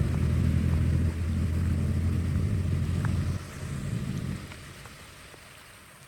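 Rushing water with a heavy low rumble and a light hiss above it. The rumble drops away a little after three seconds, leaving a fainter wash of water.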